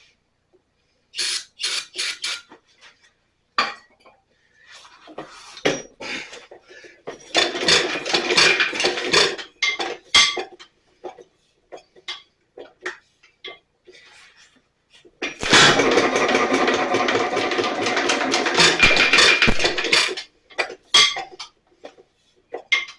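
Metal-on-metal work on a hit-and-miss engine's stuck fuel check valve: a few sharp taps, then two long spells of rapid metallic clatter and rattling, as it is being worked to break it free.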